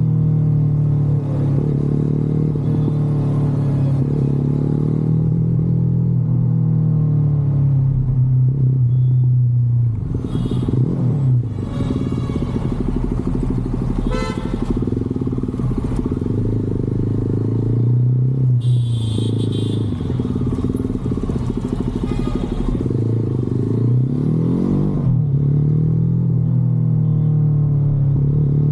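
Motorcycle engine running on the move, its pitch dropping and climbing again several times as the throttle is eased off and reopened.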